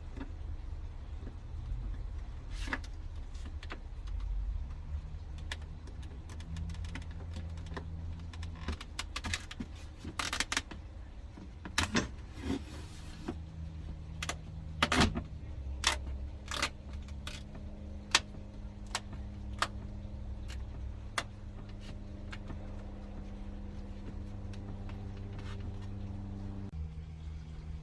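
Scattered clicks, knocks and light metallic clatter of parts and hardware being handled, over a steady low hum whose pitch steps up or down a few times.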